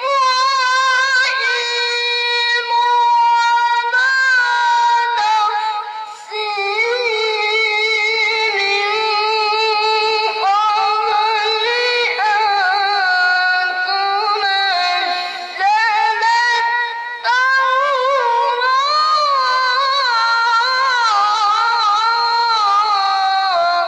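A child qari reciting the Quran in melodic tilawah style, in a high voice. The phrases are long and ornamented, the notes are held with vibrato, and there are brief pauses for breath a few times.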